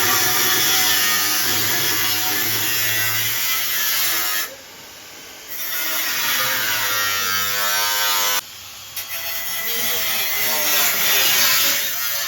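A handheld electric power tool running on car bodywork, with a dense whine whose pitch wavers as it is worked. The sound drops away abruptly twice, about four and eight seconds in, and picks up again.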